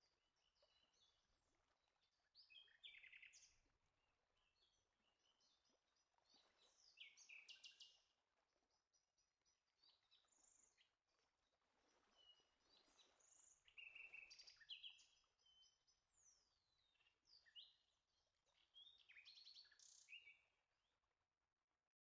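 Faint birdsong: several birds giving a varied run of chirps, quick trills and falling whistles, coming and going in short phrases.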